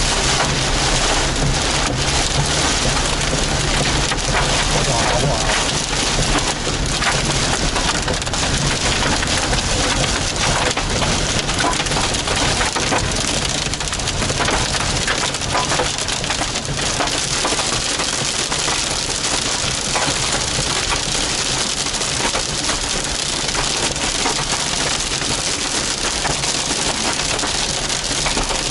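Hail and heavy rain pelting down in a thunderstorm: a dense, steady clatter of countless small hard impacts over a roar of rain.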